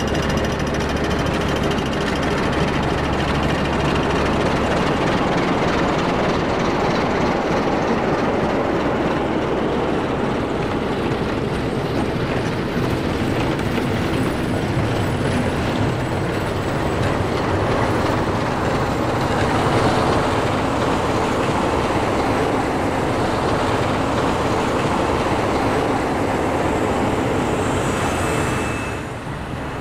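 A snow-plow train with rotary snow plow units rolling slowly past: steady running noise of the wheels and machinery on the rails, with a low hum in the first few seconds. The sound falls away near the end as the rear plow unit goes by.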